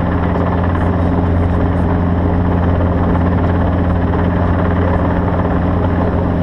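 Steady, loud engine drone with a deep, even hum.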